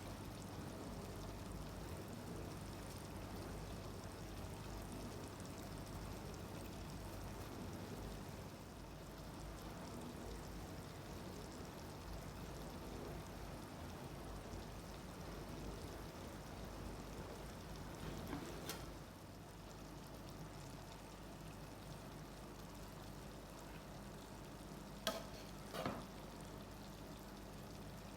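Food frying with a faint, steady sizzle in a cooking pot. Three short sharp clicks: one about two-thirds of the way through and two close together near the end.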